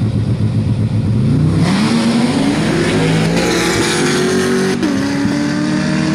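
Two V8 drag cars, a turbocharged Pontiac GTO and a C7 Corvette Z06, launching together at full throttle. A lumpy rumble gives way about a second in to engine pitch climbing steadily for some four seconds, with a rushing hiss building behind it. The pitch then drops sharply once at an upshift and the engines run on.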